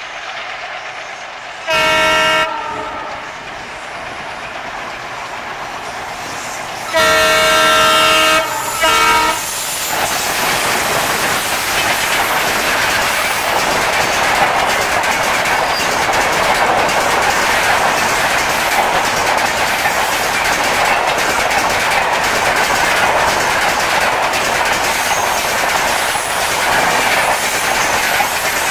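Twin WDM3A diesel locomotives sound their air horn: a short blast, then a long blast and a short one, as they approach. After they pass, the coaches of the express go by at speed with a steady rushing rumble and wheels clattering over the rail joints.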